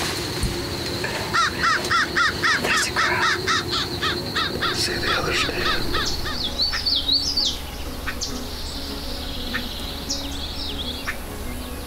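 Birds calling, a crow among them: a fast run of repeated calls for a few seconds, then scattered chirps, over a steady high insect hum.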